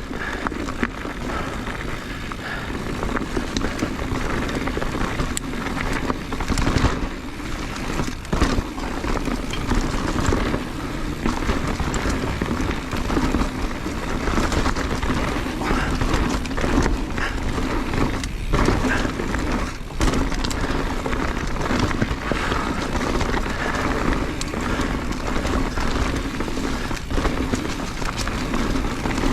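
Mountain bike riding fast down a rocky dirt trail: tyres rolling over dirt and rock, with frequent knocks and rattles from the bike as it hits bumps.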